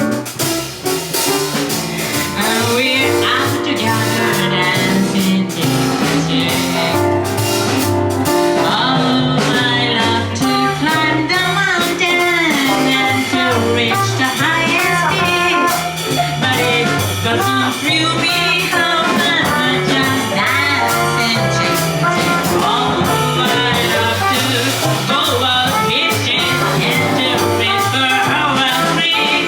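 Live jazz combo playing steadily, with drum kit and a stepping bass line under a bending melody line.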